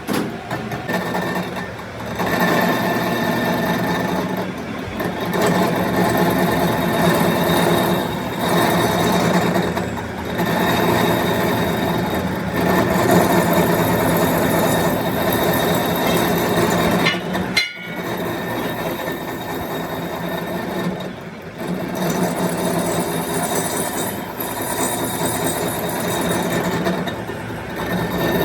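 A metalworking machine motor running steadily while it works a metal part, its pitch and loudness swelling and easing every few seconds, with one sharp click about seventeen seconds in.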